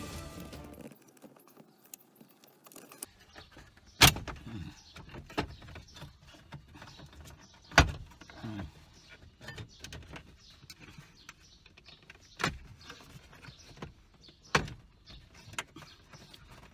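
Scattered clicks and knocks of tools and car parts being handled during hands-on disassembly. Four sharper knocks stand out, a few seconds apart, with small ticks and rattles between them.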